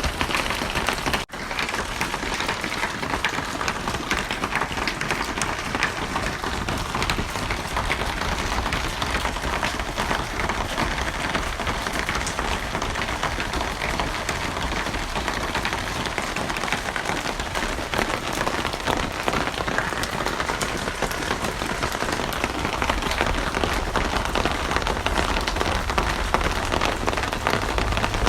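Steady rain falling on a surface, a dense patter of drops at an even level, broken by a momentary gap about a second in.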